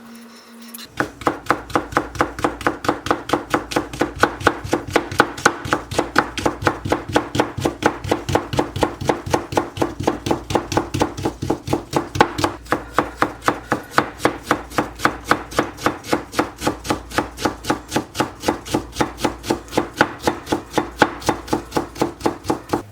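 Kitchen knife chopping rapidly on a hinoki wood cutting board, a fast even rhythm of about four to five strokes a second that starts about a second in.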